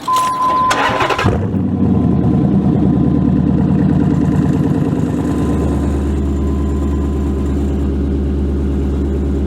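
Hemi V8 engine being started: a second or so of cranking, then it catches and settles into a loud, lumpy idle through the open exhaust cutouts.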